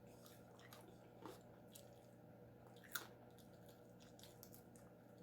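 Soft, close chewing and mouth sounds from a person eating, with a few faint wet clicks and one sharper click about three seconds in, over a low steady hum.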